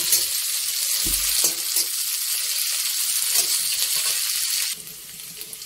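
Sliced onions and green chillies sizzling steadily as they fry in hot mustard oil in a metal kadai, stirred with a spatula that scrapes and clinks lightly against the pan. The sizzle drops away sharply near the end.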